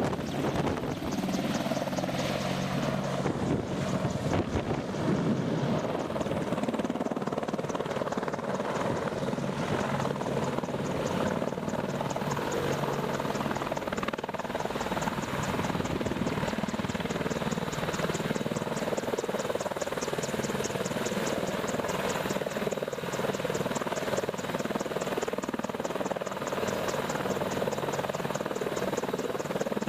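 Helicopter running steadily: a continuous drone of engine and rotors with a fast, even beating in the high range.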